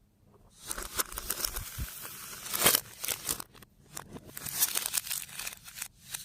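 Slime being worked by hand: irregular crackling, crinkling squishes in bursts, loudest about two and a half seconds in and again near four and a half seconds.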